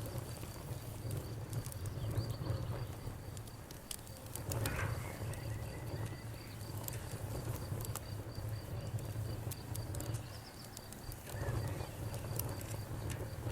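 Wood fire crackling with scattered sharp pops over a steady low rumble, while a cricket chirps in a fast, even, high-pitched pulse throughout.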